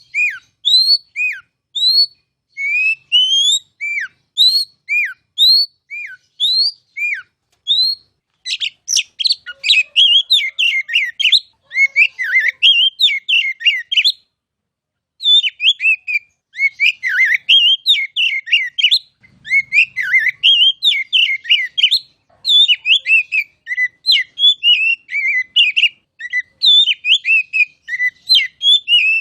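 Oriental magpie-robin (kacer) singing. It opens with a string of loud, clear, slurred whistles, about one and a half a second, then breaks into a fast, varied run of chattering, warbling phrases, with a short pause about halfway through.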